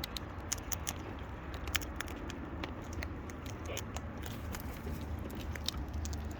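Parrots feeding at a seed bucket: irregular sharp clicks and crackles of beaks cracking and picking at seed, over a steady low hum.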